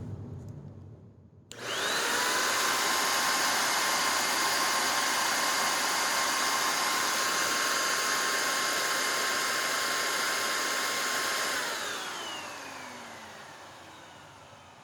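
Hoover NanoLite vacuum motor running bare on an airflow test box. It is switched on about a second and a half in, its whine climbs quickly to full speed and holds steady for about ten seconds. Then it is switched off and the whine falls away as the motor spins down.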